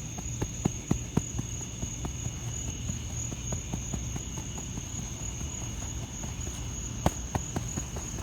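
Insects singing a steady high-pitched drone, with scattered sharp clicks and taps, a few just after the start and a couple near the end.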